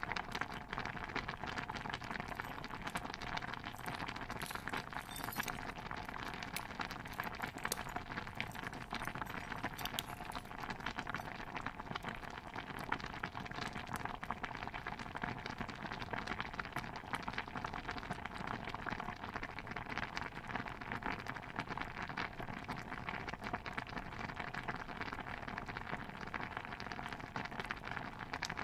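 A pot of stew bubbling steadily, a dense even stream of small pops and gurgles, with a few sharper high ticks in the first third.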